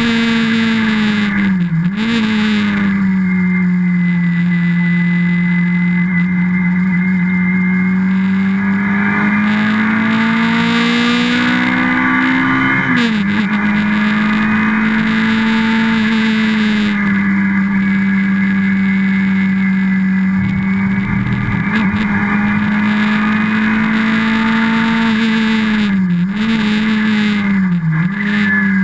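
Sunbeam Stiletto race car's rear-mounted Hillman Imp four-cylinder engine, heard from inside the cabin, running hard at high revs on the track. Its pitch drops sharply at gear changes about two seconds in and again about thirteen seconds in, climbs slowly under load in between, then holds fairly steady before two brief dips and recoveries near the end.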